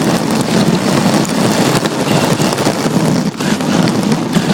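RC drift car driving with a phone microphone strapped to its bare rear chassis: loud, steady noise of the drivetrain, tyres and chassis vibration close to the mic, with a brief dip about three seconds in.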